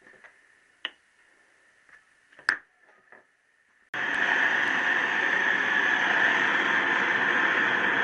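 A few light clicks and one sharp knock, then about four seconds in a loud, steady rushing hiss starts abruptly: the heating tool going on to heat a connecting rod.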